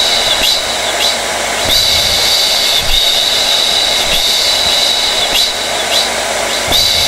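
Blow dryer running continuously: a steady rush of air under a high motor whine. The whine briefly drops out and comes back several times.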